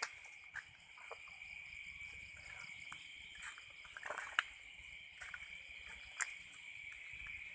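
Steady chorus of night insects such as crickets, a continuous high trilling in two pitches, with scattered short clicks and rustles; the loudest click comes about four seconds in.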